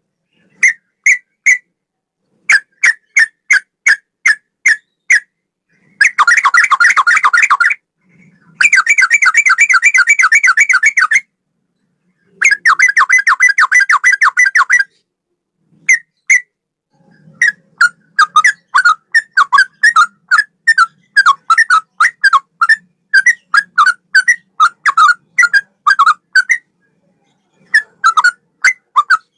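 Sooty-headed bulbul (trucukan) singing a loud song in the style of a straw-headed bulbul. Runs of separate sharp whistled notes alternate with dense rapid trills, and short gaps fall between phrases.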